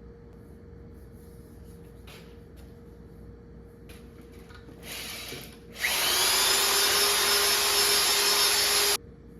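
A power drill starts about six seconds in with a brief rising whine, then runs steadily and loudly for about three seconds before cutting off suddenly. A short scraping burst comes just before it.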